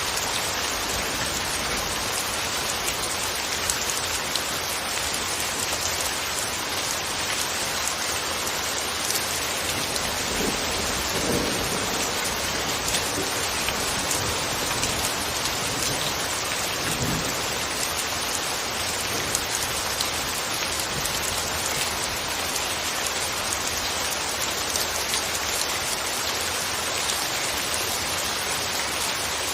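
Steady, even rain falling on a surface, a constant hiss of drops.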